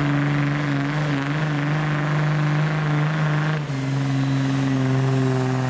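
Diesel truck engine running hard at high, steady revs under load during a truck pull. About three and a half seconds in the tone changes abruptly and the pitch steps slightly lower, then holds.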